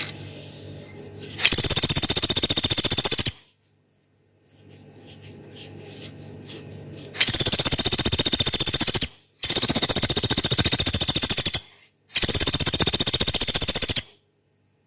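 Pelatuk beras pygmy woodpecker giving four long, harsh, high-pitched rattling trills of very fast repeated notes, each about two seconds, the 'long harsh' calls kept for training songbirds.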